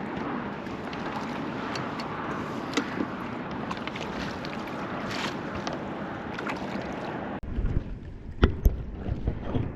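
Wind blowing across the open boat and gusting on the microphone, with water noise. About seven seconds in the sound changes abruptly to low rumbling buffets and a few sharp knocks.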